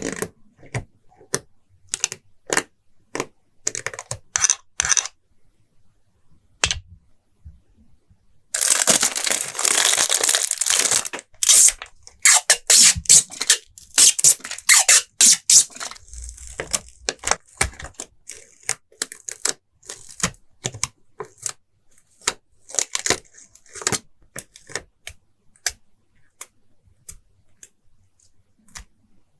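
Stickers and tape being peeled from glossy release paper and pressed into a journal, in one longer peel about a third of the way in. Many short sharp taps and clicks of paper and fingertips are scattered throughout.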